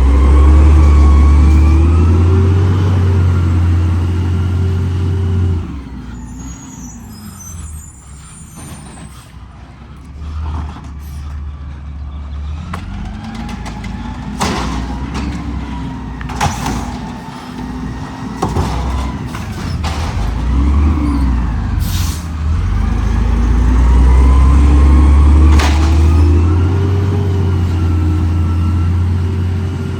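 Garbage truck engine revving up and holding high, twice, with a stretch of lower running between in which there are scattered clanks and knocks and a short hiss of air.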